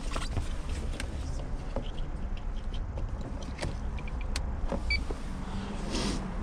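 A car engine running at idle, a steady low rumble, with scattered light clicks and taps of handling throughout.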